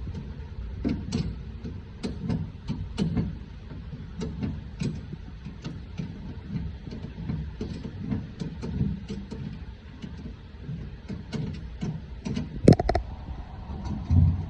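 Tools and metal parts knocking and clanking at irregular intervals during work on a pickup truck's rear emergency brake hookup, over a steady low rumble, with one loud sharp clank near the end.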